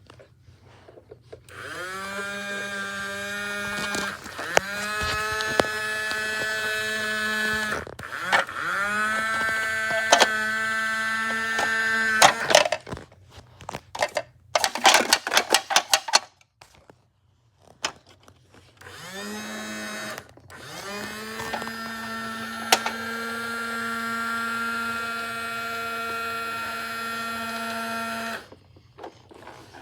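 Small electric motor whirring in bursts. It spins up quickly to a steady high whine, runs a few seconds and stops, then starts again. There are five such runs, the last and longest lasting about seven seconds. Between the third and fourth runs comes a quick rattle of clicks.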